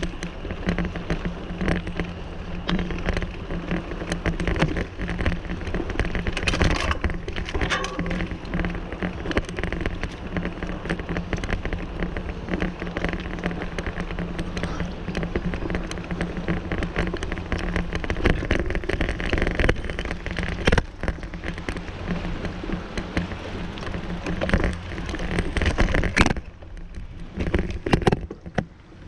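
Bicycle ride heard from a bike-mounted camera: wind rushing over the microphone with a low rumble, and a constant crackle of rattling clicks from the bike and tyres on the trail. The noise drops for a moment near the end, broken by a few sharp knocks.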